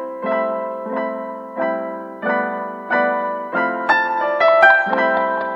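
Background piano music: chords struck about every two-thirds of a second and left to ring, with a short run of higher notes about four seconds in.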